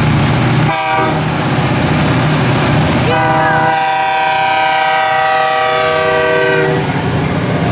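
Freight train's diesel locomotives rumbling past, with a short horn toot about a second in, then one long horn blast from about three seconds in to near the end.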